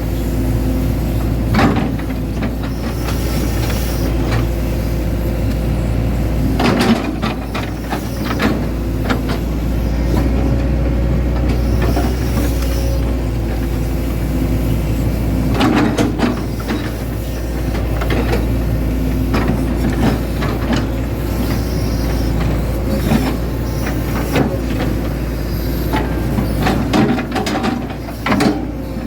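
Hitachi Zaxis 110 excavator's diesel engine running steadily at working speed, with scattered knocks and clanks from the machine as it digs, several of them bunched near the start, in the middle and near the end.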